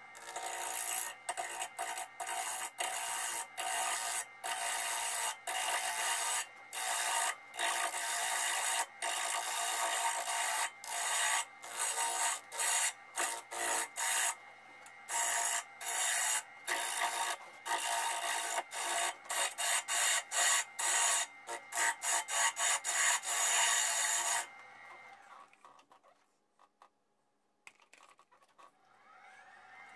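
Abrasive rubbing against a walnut bowl spinning on a wood lathe, a steady scratchy hiss over the low hum of the lathe motor, broken by many brief pauses. It stops about three-quarters of the way through.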